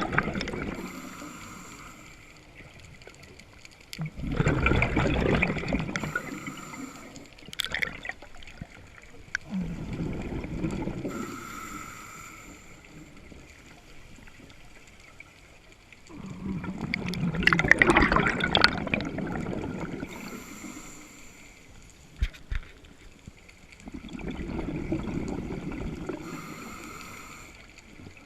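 A scuba diver breathing through a regulator underwater. Each short hissing inhalation is followed by a longer rush of bubbling exhaled air, for about five slow, even breath cycles.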